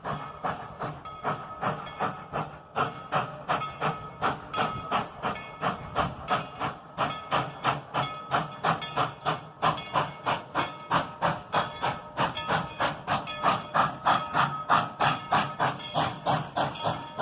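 Narrow-gauge steam locomotive working under steam, its exhaust chuffing in a quick, even rhythm of about three to four beats a second.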